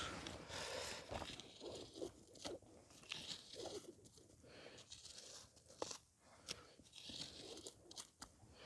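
Faint, scattered crunching of dry sticks and leaf litter being handled and placed in a fire pit, with a few sharp clicks of twigs knocking or snapping, more of them near the end.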